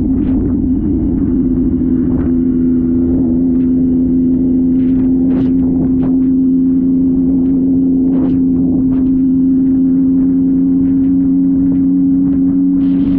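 Motorcycle engine held at steady high revs, one unwavering note that dips slightly about a second and a half in, with brief sharp sounds scattered over it.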